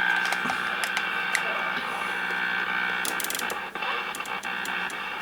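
Static hiss with steady whistling tones from a CB base station's speaker, broken by scattered sharp clicks as the channel selector is stepped.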